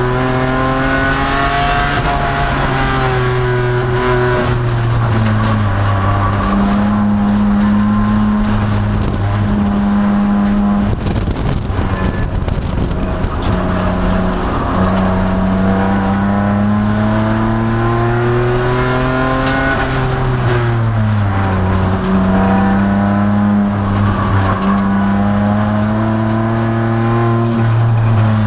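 2002 Nissan Maxima race car's V6 engine under load on track, its note climbing steadily with revs and dropping sharply twice, about four seconds in and again about twenty seconds in.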